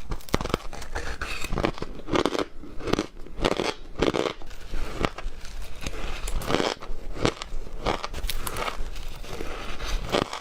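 Ice being bitten and chewed close to the microphone, a continual run of sharp crunches and crackles.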